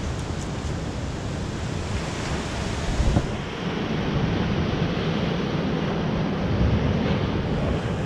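Atlantic surf breaking and washing over a rocky shore, a steady rushing noise. Wind buffets the microphone, with a brief low surge about three seconds in.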